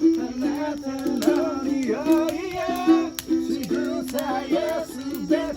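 Ukulele playing a tune, the notes changing every fraction of a second, with a voice singing along.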